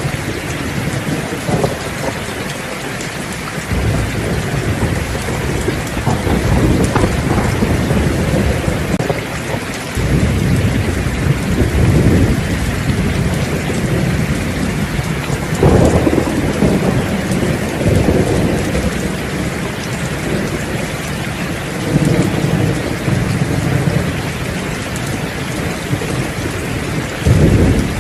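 Heavy rain falling steadily through a thunderstorm, with rolling thunder swelling up several times, the strongest rumbles beginning sharply about 4, 10 and 15 seconds in.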